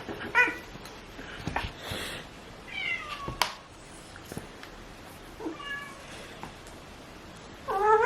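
Domestic cat meowing, about five short calls, some sliding down in pitch, the loudest near the end. A single sharp click falls about three and a half seconds in.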